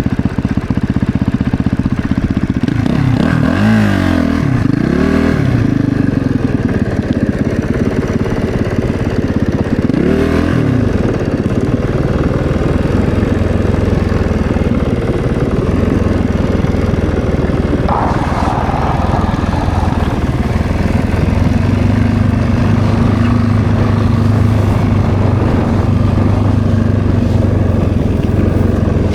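Snowbike's 450 cc single-cylinder four-stroke engine running under the rider, revving up and down several times in the first ten seconds, then holding a steadier pace.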